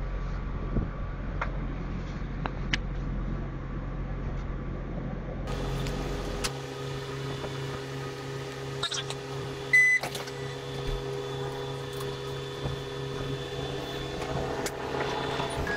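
Inside a diesel railcar: a low rumble while the train runs, then a steady engine hum while it stands. About ten seconds in comes one short loud beep, and near the end the engine note rises as the railcar pulls away.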